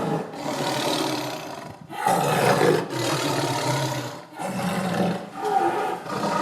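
A large wild cat roaring again and again, in loud bouts of one to two seconds with short breaks between them.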